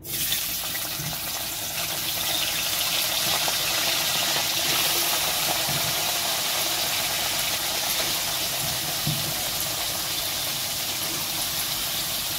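Chopped vegetables sizzling in hot oil in a wok: a loud, steady sizzle that starts suddenly as they are dropped in.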